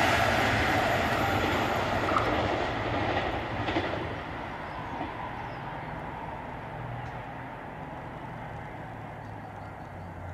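Regional train of n-Wagen coaches hauled by a DB class 218 diesel locomotive rolling away. The wheel and rail noise fades over the first few seconds, with a couple of wheel clacks, and a steady low diesel drone continues underneath.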